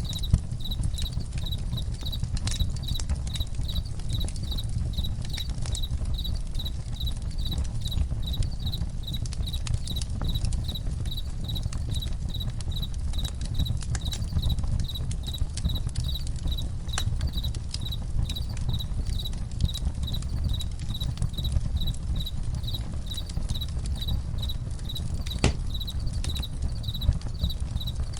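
Crickets chirping steadily in an even rhythm, about two chirps a second, over a campfire crackling with scattered sharp pops and a low rumble.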